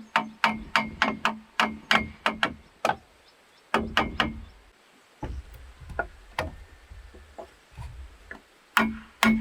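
Repeated sharp blows of a tool striking bamboo, about two to three a second, each with a short ringing tone. The strokes thin out and soften in the middle, then come quickly again near the end.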